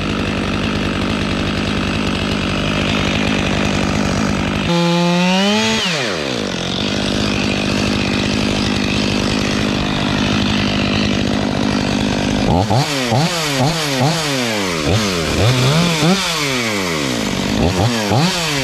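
Stihl 500i two-stroke chainsaw running at full throttle in a cut through the cedar spar; about five seconds in it revs sharply up and drops back, then runs steadily again, and in the last six seconds it revs up and down over and over.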